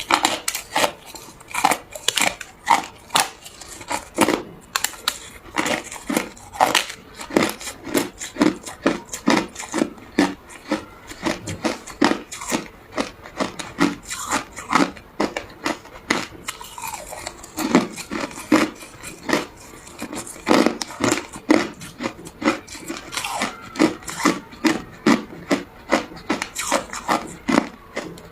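Ice being bitten and chewed close to the microphone: a rapid, uneven run of sharp crunches, about two to three a second.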